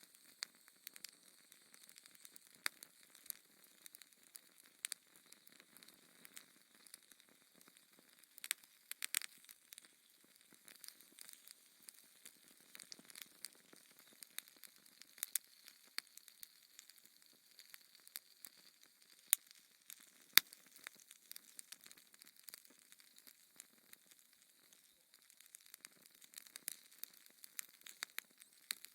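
Wood fire crackling in a fireplace: irregular sharp pops and snaps over a soft hiss, with a quick cluster of pops about nine seconds in and two louder pops around twenty seconds in.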